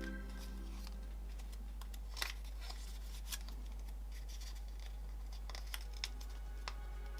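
Scissors snipping paper: a handful of short, sharp snips spaced a second or more apart, over a steady low hum.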